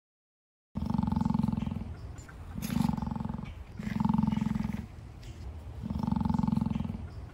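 Emu giving its deep, low drumming call in four bouts of about a second each, the first starting about a second in.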